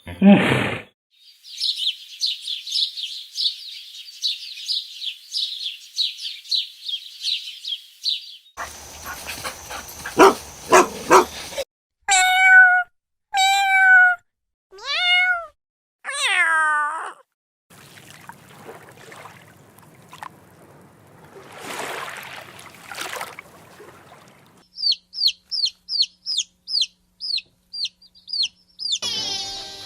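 A series of different animal calls: a long run of high chirps, then several loud falling calls, and near the end a quick series of short high chirps.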